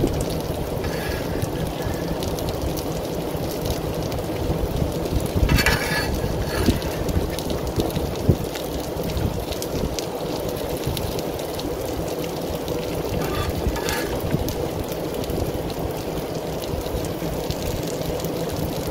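Chicken thighs and peppers sizzling on a Blackstone propane griddle, a steady frying hiss, with a few brief scrapes and taps of a metal spatula on the griddle plate as the peppers are lifted off.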